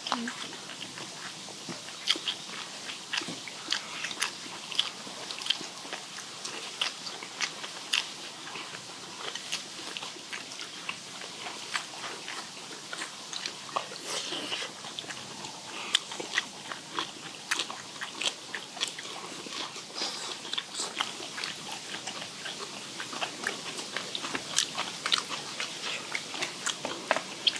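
Close-miked eating sounds: several people chewing and crunching steamed skate and crisp bean sprouts, with many irregular, sharp wet clicks from their mouths.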